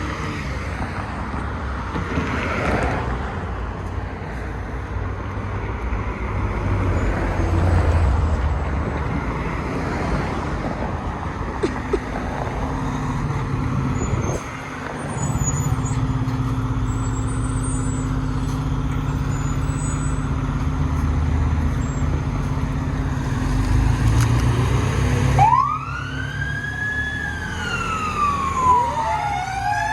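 Fire engine running with a low, steady rumble. About 25 seconds in, its siren starts, sweeping up and down in pitch.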